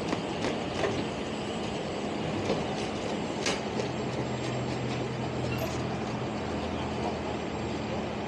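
Truck engine running steadily while the hydraulic boat trailer is worked, with a few sharp clicks early on and a deeper hum setting in about four seconds in.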